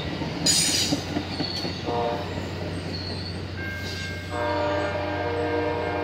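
Amtrak passenger train passing: the wheels rumble on the rails as the last car goes by, with a short hissing clatter about half a second in. The locomotive's multi-note air horn sounds briefly about two seconds in, then blows steadily from just after four seconds on.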